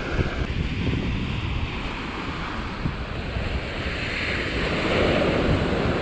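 Surf washing onto a beach, with wind buffeting the microphone; the wash swells a little about four seconds in.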